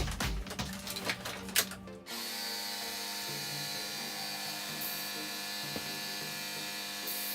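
Background music with a beat that cuts off about two seconds in, giving way to the steady whine of a small electric power tool running at constant speed.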